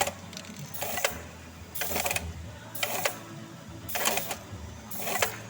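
Pneumatic automatic eyelet (grommet) setting machine cycling at a steady pace, about once a second, each stroke a short burst of air hiss from the cylinder, over a low steady hum.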